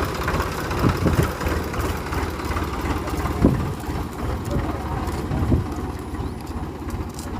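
Tractor engine idling with a steady low rumble, with a few short louder chugs: about a second in, midway, and a little past five seconds.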